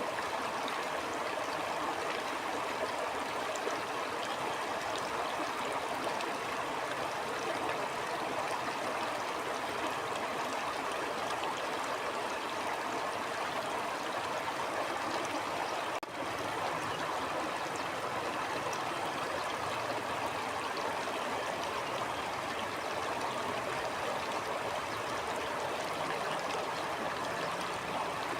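Stream water flowing steadily, an even rushing babble, with a momentary drop in level a little past halfway.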